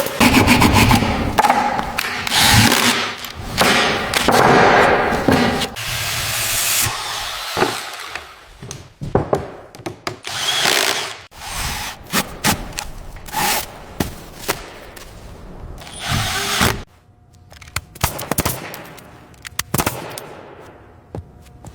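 Power tool running in bursts, mixed with many sharp knocks and clatter from hand-tool work.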